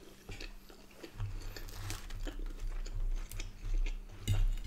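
Close-miked chewing of a mouthful of Yorkshire pudding and corned beef hot pot: irregular wet mouth clicks and smacks, busier from about a second in. Near the end a sharper knock as a fork touches the plate.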